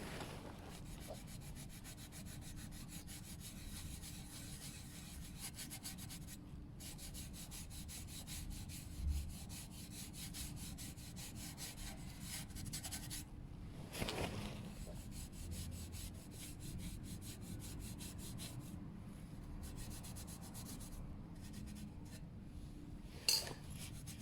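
A scouring pad scrubbing a stainless steel motorcycle exhaust coated in toilet cleaner, in rapid back-and-forth strokes. The scrubbing pauses briefly about six and thirteen seconds in.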